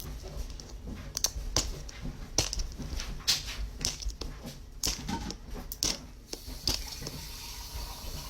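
Irregular sharp clicks and crinkles of plastic being handled and pried at as a toy surprise ball is worked open by hand.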